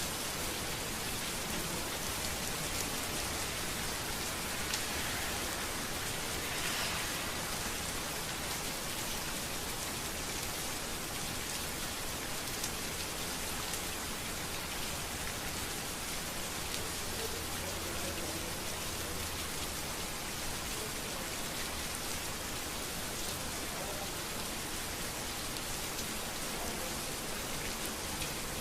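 Steady rain falling on a street: an even hiss that holds level throughout.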